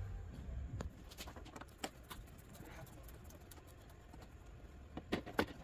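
Scattered light clicks and taps of a screwdriver and plastic light parts being handled at a car's bumper light, with a quick cluster of louder clicks near the end.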